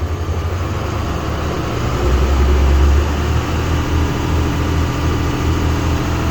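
Cummins diesel engine of a Freightliner FL50 truck idling, heard from inside the cab, with a brief louder, deeper swell about two seconds in.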